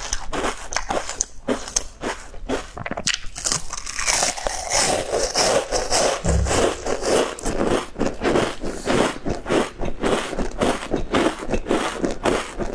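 Close-miked biting and chewing of a crisp, crinkle-cut pastry: a dense, irregular run of crunches in the mouth.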